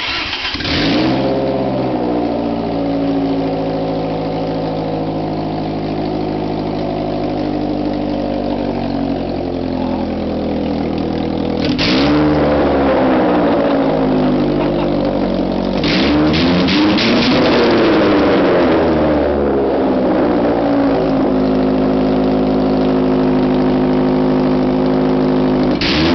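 1995 Ford Escort GT's 1.8-litre four-cylinder engine running with no exhaust manifold, so it exhausts straight out of the cylinder-head ports. It catches at the start and then idles. It is blipped once about halfway through, and revved several times a little later, before settling back to idle.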